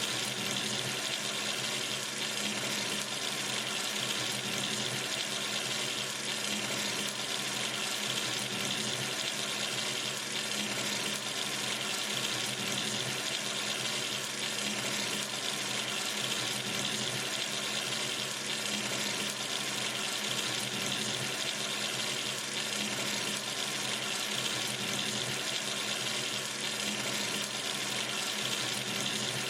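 Tap running steadily into a sink, a constant even rush of water with no change.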